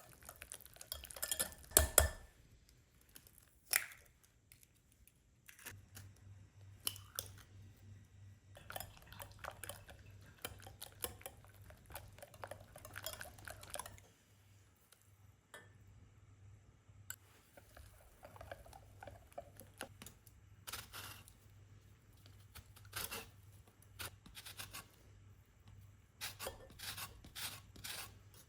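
Kitchen dishes and utensils clinking and knocking in a run of separate handling sounds, the loudest clatter about two seconds in. A steady low hum starts about six seconds in and runs under them.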